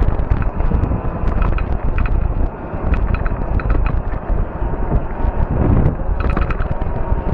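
Wind buffeting the microphone over the low rumble of a fat-tire e-bike being ridden, with scattered short clicks and rattles and a faint steady whine.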